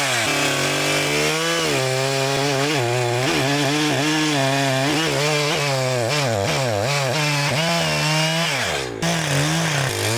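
ECHO CS-590 two-stroke chainsaw cutting through dirty wood at full throttle. Its engine pitch sags again and again as the chain loads up in the cut, then picks back up, with the deepest drop near the end.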